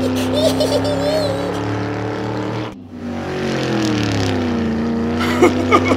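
Car engine sound effect: one engine runs steadily and stops just under three seconds in, then a second engine starts, its pitch dipping and rising again.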